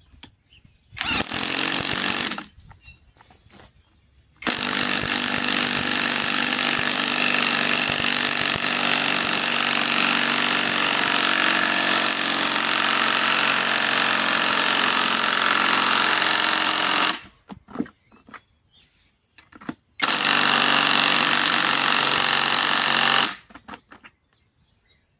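Bauer cordless compact impact wrench, powered by a Flex 2.5 Ah battery through an adapter, hammering to drive a large fastener. It runs in three trigger pulls: a short burst about a second in, a long run of about twelve seconds, then a burst of about three seconds, with pauses between.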